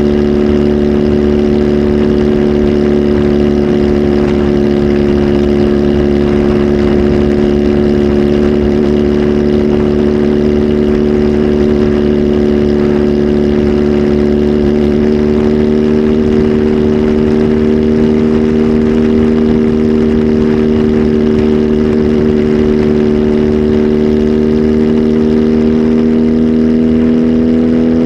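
Kawasaki Z H2 SE's supercharged inline-four engine, flash-tuned and breathing through a full aftermarket exhaust system, running loudly at a held, steady engine speed. Its pitch creeps slowly upward and rises a little more near the end.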